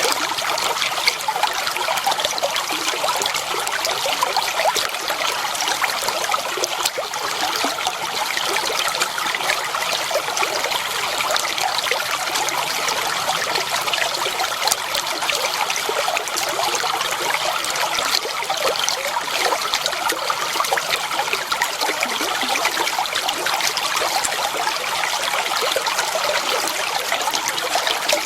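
Shallow flowing water trickling and splashing steadily, a continuous babble of small splashes.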